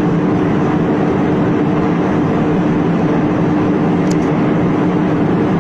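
Steady airliner cabin noise in flight: the even rush of engines and airflow with a constant low hum.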